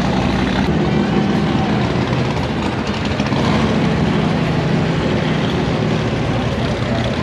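A vehicle engine idling steadily at close range.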